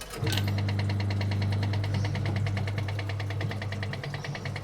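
A small electric motor switched on, starting suddenly just after the start and then running with a steady hum and a fast even pulsing.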